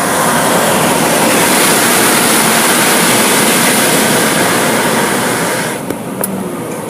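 Car wash equipment running with a loud, steady rushing hiss that drops away about six seconds in.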